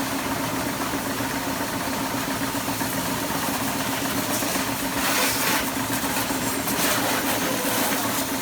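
A motor running steadily with a constant hum, with short bursts of hiss about halfway through and again near the end.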